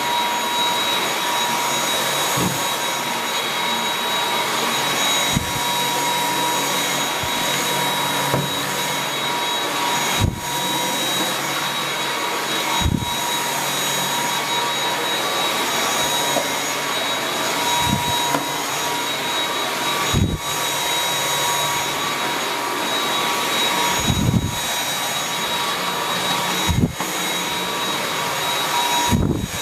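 Dyson V8 cordless stick vacuum running with its Fluffy soft-roller head on hard floor: a steady motor whine with high pitched tones over the rush of air. There are a dozen or so brief low knocks as the head is pushed around.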